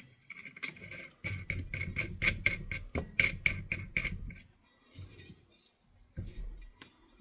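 A quick run of small clicks, about four or five a second, over a low rumble, as CEC ceiling fan motor parts are worked by hand during reassembly; it thins to a few scattered knocks after about four and a half seconds.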